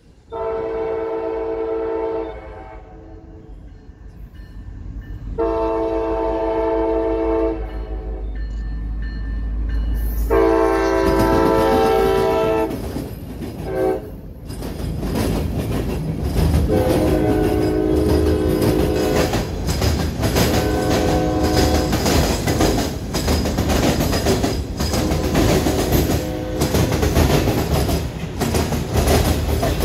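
CSX diesel freight locomotive sounding its air horn in three long blasts as it approaches, over a low engine rumble that builds. From about fifteen seconds in, boxcars roll past close by with a steady loud rumble and rapid clacking of wheels over the rail crossing diamond.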